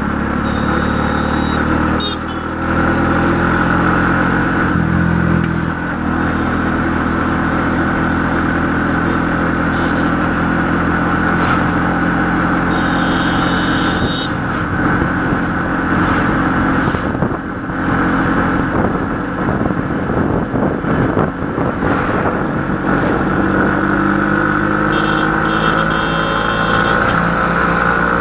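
A motor vehicle's engine running steadily, its pitch rising a little near the end as it speeds up. Short high tones come through a few times.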